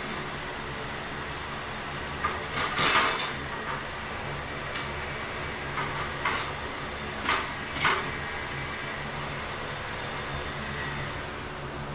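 A steady low mechanical hum, with a few short hissy sounds; the loudest comes about three seconds in, and three more follow between six and eight seconds.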